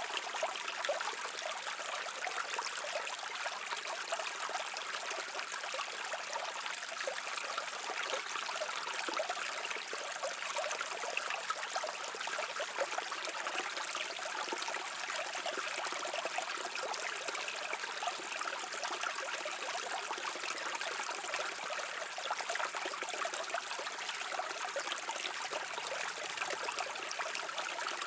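Brook water babbling steadily, an even rush of running water with fine, continuous trickling and splashing and almost no low rumble.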